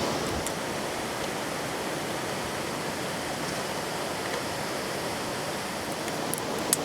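Steady rushing of a river flowing over rocks, with a few sharp clicks near the end.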